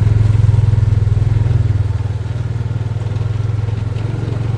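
A vehicle engine running steadily, a low pulsing hum that eases off a little midway.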